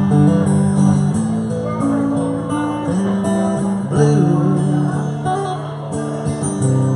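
Live band playing an instrumental passage led by strummed acoustic guitar, between sung verses.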